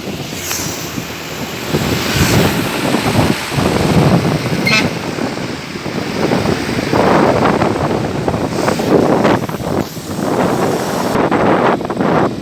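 Truck and traffic noise picked up by a CCTV microphone, swelling and falling, with wind buffeting the microphone and a brief high tone about five seconds in.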